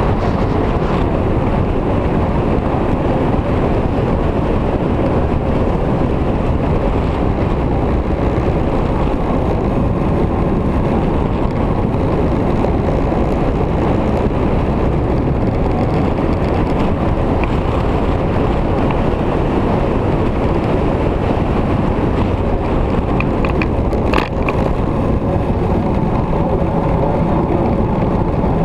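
Victory motorcycle's V-twin riding along at steady speed, its engine mixed with a steady rush of wind on the microphone; a brief sharp click near the end.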